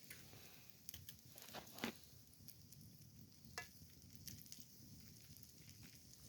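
Campfire crackling faintly, with scattered irregular sharp pops.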